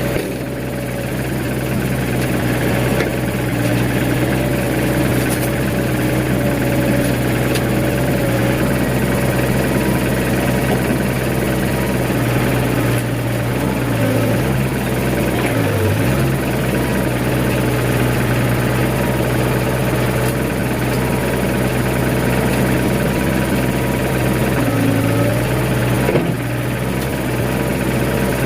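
Nissan BD30 four-cylinder diesel of a Hitachi EX60 excavator running steadily, back in running order after its injection pump was refitted. Its note dips briefly three times, around the middle and again near the end.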